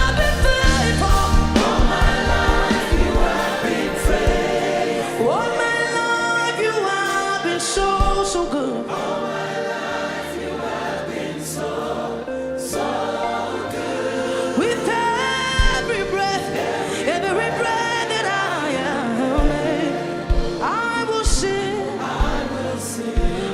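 A group singing a gospel song together, several voices at once, with a heavy drum-like beat underneath in the first couple of seconds that drops away.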